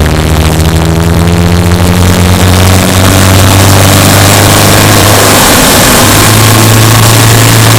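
Subaru Impreza Sport's flat-four boxer engine running as the car drives, its pitch holding nearly steady. The sound is thinner at first and turns fuller about three seconds in.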